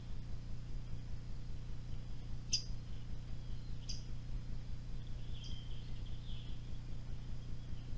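A bird calling: three short, high chirps about a second and a half apart, with a softer, lower twittering near the end, over a steady low hum.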